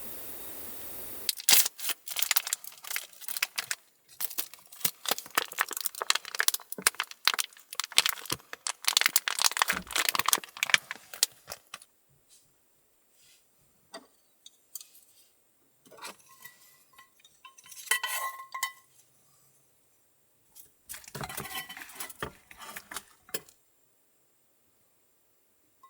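Dense rapid clinking and rattling of small hard objects, then scattered clinks, one with a brief ringing tone.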